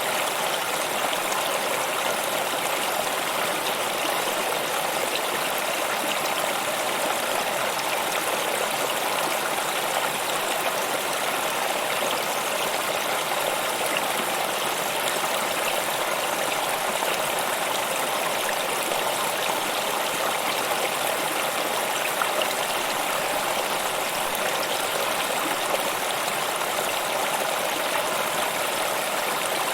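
Stream water flowing and splashing, a steady continuous rush.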